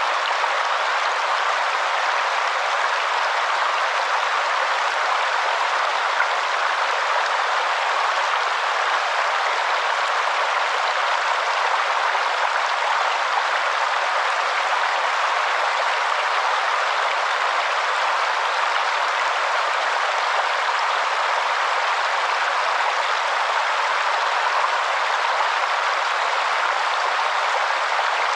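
Waterfall: a steady, even rush of falling water, with no bass.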